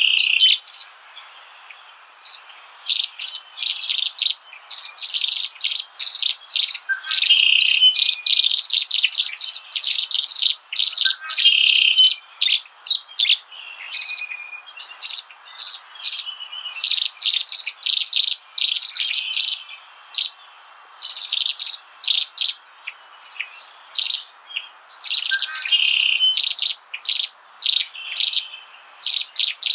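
Small birds chirping and twittering in quick runs of high notes, broken by short pauses.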